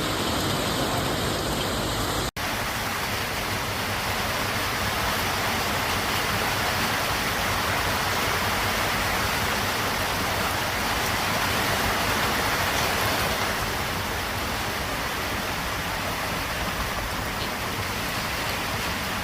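Heavy rain pouring down in a steady, continuous hiss, broken by a brief gap about two seconds in.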